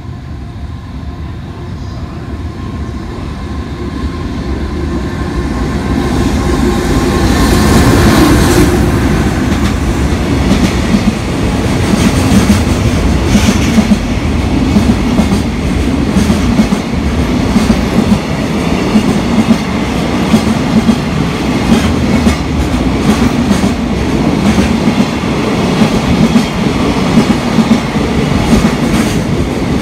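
Freight train passing through a station without stopping: its sound builds over the first eight seconds as it approaches, then a long string of container wagons runs past with a steady, rapid clickety-clack of wheels over the rails.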